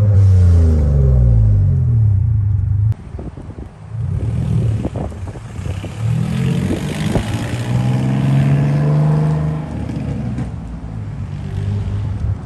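BMW E46's S54 inline-six engine revving: the pitch falls off over the first three seconds and breaks off suddenly, then climbs again through the middle and eases down near the end.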